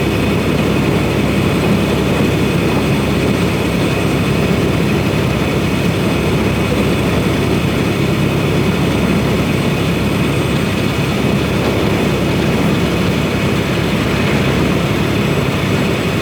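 Steady drone of a semi truck's diesel engine and road noise heard from inside the cab while driving, even in level with no changes.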